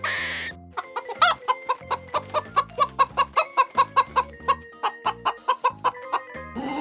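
Chicken clucking in a rapid, even string of about five clucks a second, over background music.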